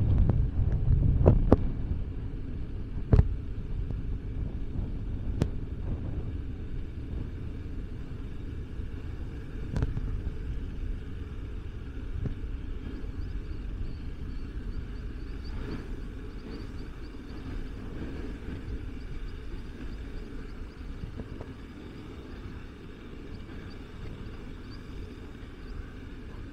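Low steady rumble of street traffic, with a few sharp knocks in the first ten seconds, the loudest about one and a half and three seconds in.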